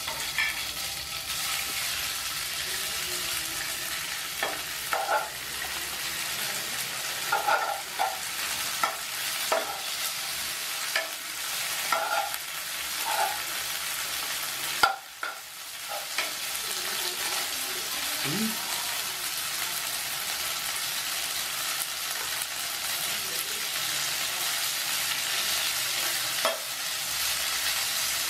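Noodles frying in an oiled nonstick pan: a steady sizzle, with the scrape and tap of a spatula stirring them and a few sharper knocks against the pan.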